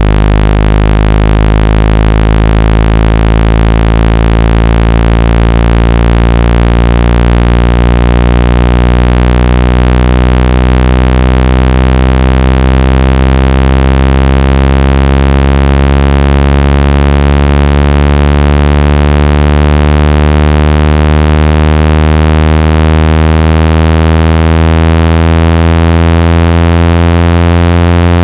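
Speaker-cleaning test tone: a loud electronic low buzz, rich in overtones, whose pitch slowly climbs, played to shake water and dust out of a phone speaker.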